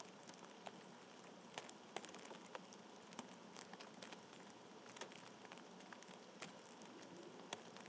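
Faint outdoor ambience: a steady soft hiss with scattered light ticks and taps at irregular intervals.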